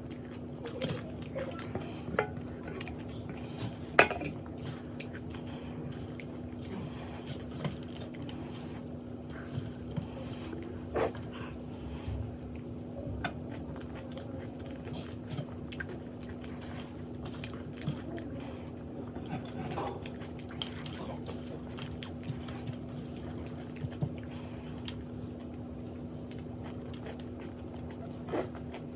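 Someone eating from a plate: scattered clinks and taps of food and fingers or utensils against the dish, with chewing, over a steady low hum.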